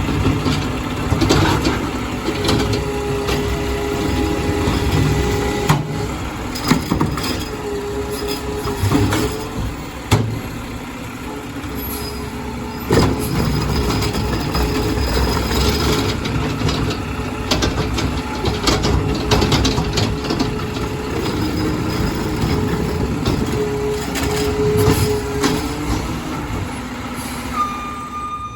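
Garbage truck working at close range: its diesel engine running, with whining tones that come and go and repeated metallic clanks and knocks.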